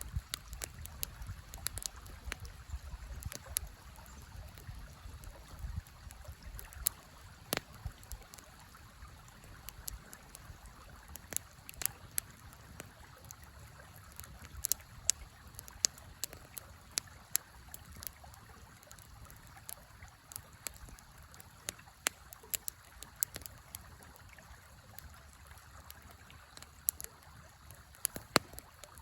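Wood fire crackling, with irregular sharp pops and snaps, over the steady rush of a flowing river.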